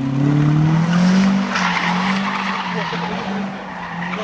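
Drift car's engine held at high revs, its note rising a little about a second in and then steady. From about a second and a half in, the tyres skid and squeal as it slides.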